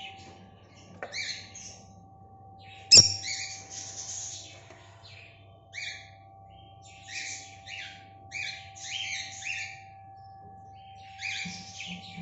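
Lovebirds chirping in short bursts of shrill calls every second or two, with a sharp click about three seconds in and a faint steady hum underneath.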